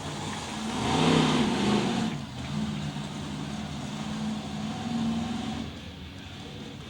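Monster truck engine revving up, loudest a second or two in, then running at a steady pitch before falling away near the end.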